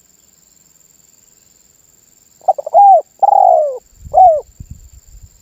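Spotted dove giving one cooing phrase about halfway through: a quick stuttering start, a long coo, then a short falling coo.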